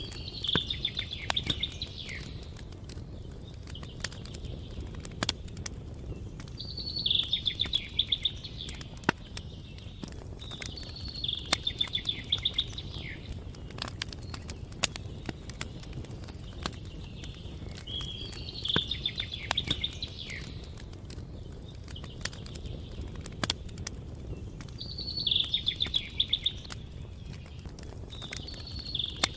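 A songbird sings a short, rapid, trilled phrase about six times, a few seconds apart. Under it a campfire crackles with scattered sharp pops over a steady low rumble.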